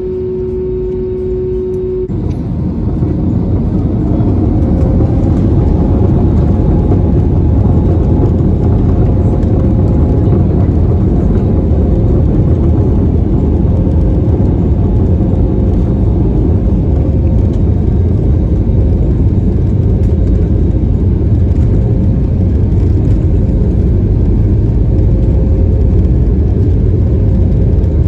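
Airbus A320 jet engines heard from the cabin beside the wing, spooling up with a rising whine over a few seconds to takeoff power, then a loud, steady rumble with a constant hum: the takeoff roll and climb-out.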